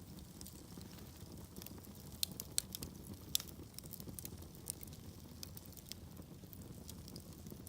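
Wood fire burning in a fireplace: a steady low rumble of flame with irregular sharp crackles and pops, a few louder pops between about two and three and a half seconds in.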